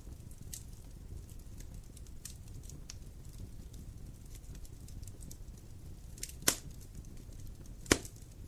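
Wood fire crackling: a low steady rumble with scattered small ticks, and two loud sharp pops near the end about a second and a half apart.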